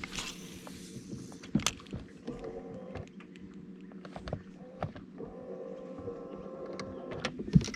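Boat's electric trolling motor running with a steady whine that rises in strength twice as it pushes the boat along, with scattered knocks and taps on the hull, the loudest near the end.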